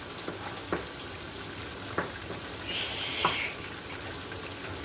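Chopped garlic, carrots and celery sizzling in hot oil in a pan, with three short knocks about a second apart.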